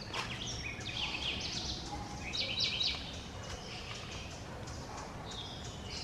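High-pitched bird chirps and chattering calls: a few short calls, then a burst of rapid chattering notes about two and a half seconds in, over steady low background noise.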